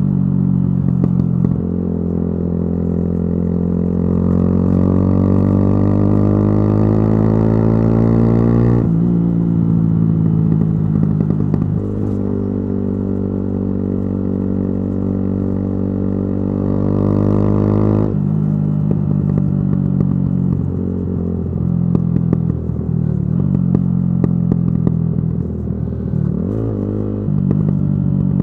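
Yamaha YZF-R125's single-cylinder four-stroke engine through a modified exhaust, pulling hard with the revs climbing steadily in two long rises. Each rise ends in a sharp drop, about nine and about eighteen seconds in. After that the revs run lower and uneven, with brief dips near the end.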